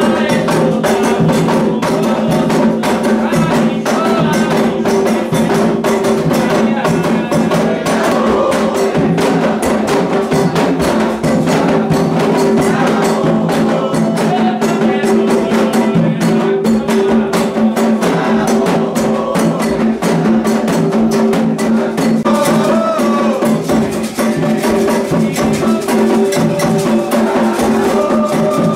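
Candomblé ritual music: atabaque hand drums playing a fast, dense, steady rhythm with a sharp struck timekeeping pattern on top, and a group of voices singing over the drums.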